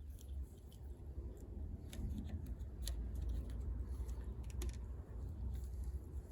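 Scattered light clicks and taps of tools and bicycle parts being handled during reassembly, over a steady low rumble.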